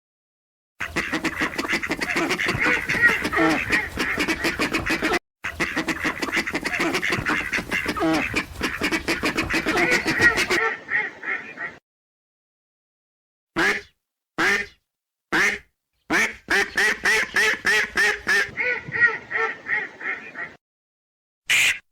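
Ducks quacking in long, rapid runs of calls, broken about halfway by three single quacks, then another fast run.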